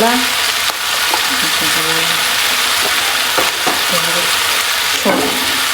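Onions, potatoes and spices frying in oil in a kadhai: a steady sizzle, with a spatula clicking and scraping against the pan as it is stirred.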